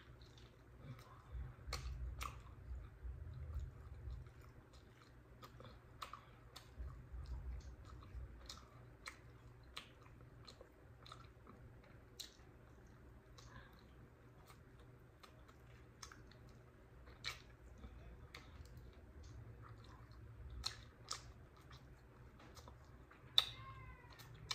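A person chewing and gnawing meat off barbecued pork spare ribs, with frequent wet lip smacks and mouth clicks, one sharper smack near the end.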